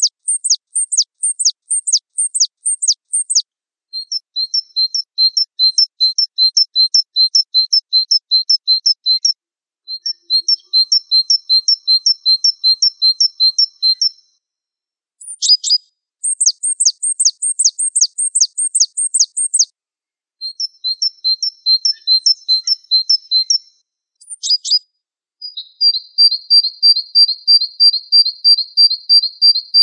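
A gelatik wingko singing: bouts of rapid, high repeated notes, with sharp downward-sweeping notes about four a second alternating with faster chattering runs of doubled notes, each bout lasting a few seconds with short pauses between. Near the end comes a quicker, steady trill.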